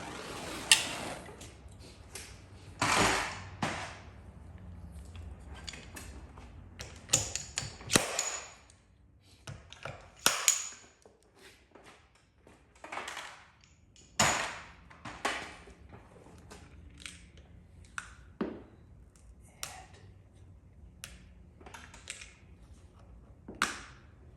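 Irregular clicks, taps and knocks, a few with a short high ping, from hand tools and small parts being picked up and set down during a glue-pull dent repair.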